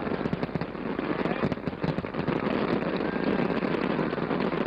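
Aerial fireworks display: a dense, continuous crackle of many shells bursting and sparkling, scattered with sharp pops and bangs.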